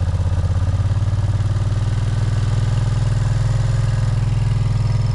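2004 Suzuki Volusia's V-twin engine running at a steady fast idle just after a cold start, the choke pulled out so the engine is revving a little loud.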